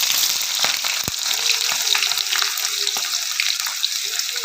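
Food frying in hot oil in a pan for a chicken curry, sizzling steadily with many small crackles and pops.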